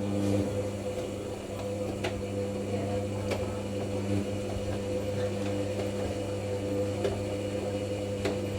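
Hoover NeXtra HNL3146 washing machine's drum motor humming steadily as the drum turns through its saturation tumbles, wetting the load at the start of the wash. Occasional light clicks and knocks come through the hum.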